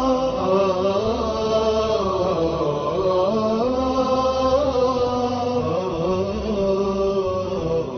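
Wordless vocal chanting from an Arabic devotional nasheed: voices holding long notes and gliding slowly up and down through the melody.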